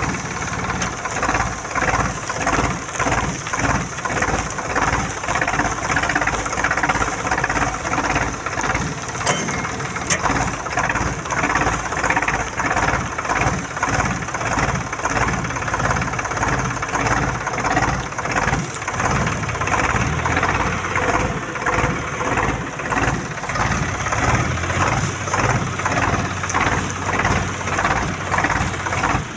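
Swaraj 735 tractor's three-cylinder diesel engine running steadily with an even, pulsing beat.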